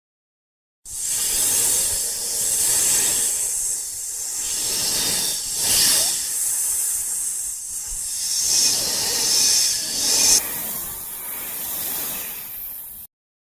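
A long hissing noise that swells and eases several times and cuts off abruptly.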